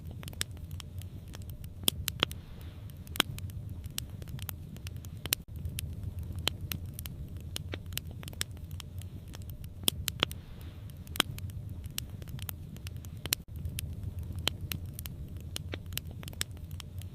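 Wood fire crackling: sharp, irregular pops and snaps over a steady low rumble of flames. The sound cuts out for an instant twice.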